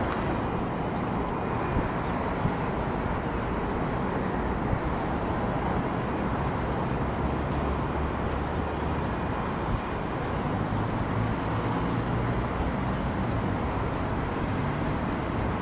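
Steady rumble of a Boeing 737-800's CFM56-7B jet engines, heard outdoors as an even noise with no change in pitch.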